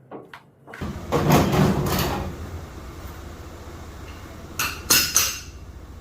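Clunks and rattling of equipment being handled, in two loud clusters, one about a second in and one near the end. A steady low hum starts about a second in.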